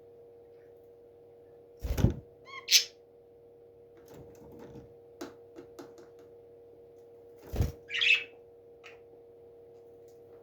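A parrot gives two short, harsh squawks, each coming just after a dull thump, with a brief chirp after the first and light scratching clicks between them. A steady electrical hum runs underneath.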